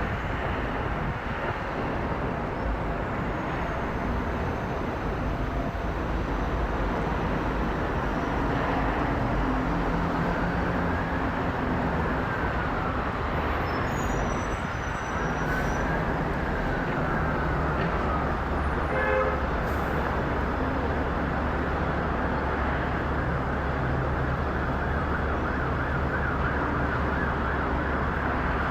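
Steady roar of a Boeing 777-200LR's jet engines (GE90s) at takeoff power. A siren rises and falls twice about ten seconds in.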